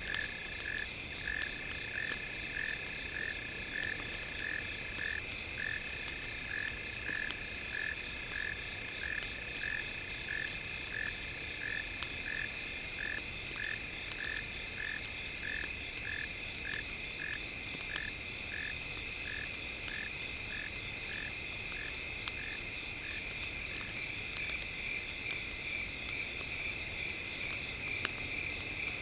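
Night campfire ambience: a repeated chirping call, about one and a half a second, that fades out a little after twenty seconds. Under it are a steady high-pitched insect-like drone and light crackles from the fire.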